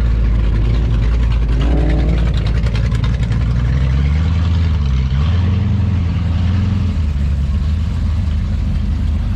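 Classic car engine running as the car drives off. Its pitch dips and then rises again about halfway through.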